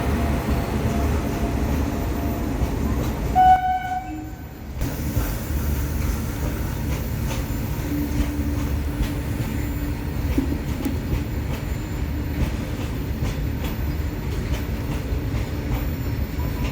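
Freight train hauled by a WAG-9 electric locomotive, running past with a steady rumble. There is a short horn blast about three and a half seconds in, then wheels clacking over rail joints for the rest of the pass.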